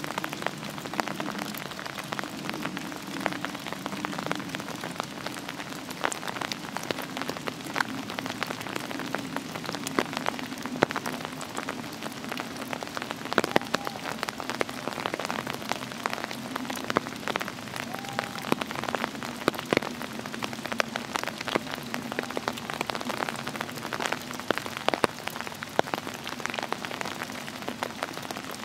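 Steady rain, many separate drops ticking on leaves and clothing. Faint distant calls of the beaters sound underneath.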